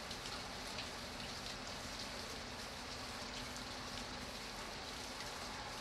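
Steady rain falling: an even hiss, with many separate drops heard as small ticks.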